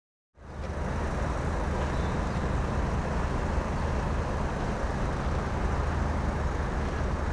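Steady engine rumble with a low hum, fading in from silence about half a second in.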